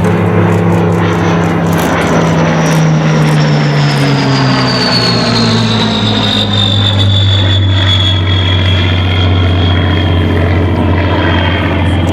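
Rolls-Royce Merlin-engined warbird making a loud low flypast. The engine note drops in pitch about halfway through as it goes by, and a high whine glides steadily down with it.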